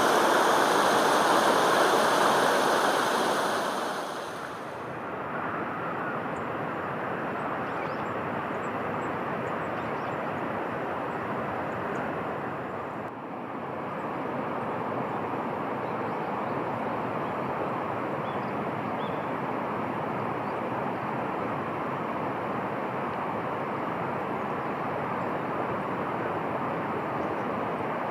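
Steady rushing noise outdoors: loud running water for about the first four seconds, then it drops to a quieter, even rush that carries on, with a brief dip about halfway through.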